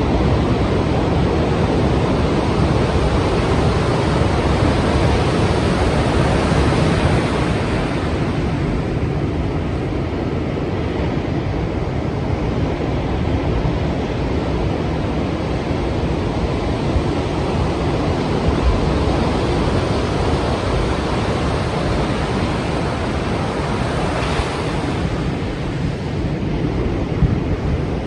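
Strong sea waves breaking and surf washing in a continuous roar of noise, swelling in the first several seconds and again briefly near the end.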